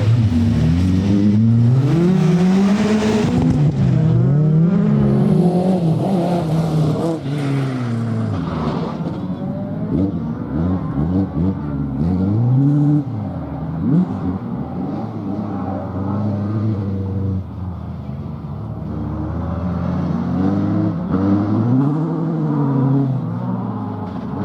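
Competition car engine on a rally stage, revving hard and dropping off again and again as it accelerates and brakes through the corners. It is loud at first and sounds farther off and duller after about eight seconds, with the rising and falling revs continuing.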